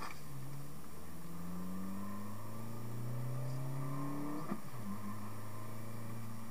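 Renault Megane 1.6 16v four-cylinder engine heard from inside the cabin, its revs climbing under acceleration, then falling sharply at an upshift about four and a half seconds in and holding steady after it.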